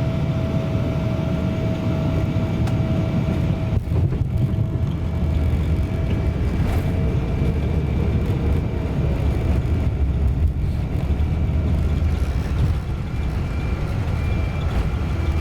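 Boeing 777-200 airliner heard from inside the economy cabin: a steady low rumble of engine and airframe noise with faint steady whining tones.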